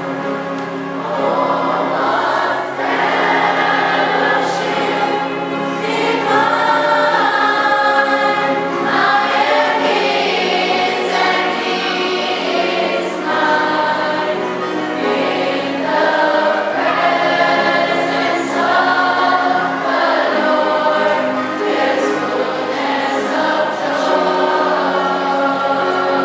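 Church choir singing, many voices holding long notes that change every second or two.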